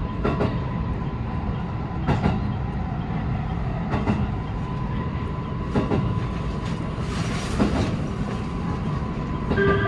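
JR West 223 series electric train running at speed: steady wheel-and-rail rumble with a sharp clack about every two seconds. Right at the end its melodic music horn starts to sound.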